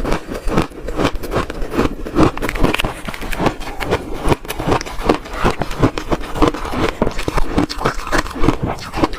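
Close-miked crunching of red shaved ice, bitten and chewed: a dense stream of crisp cracks and crackles, several a second.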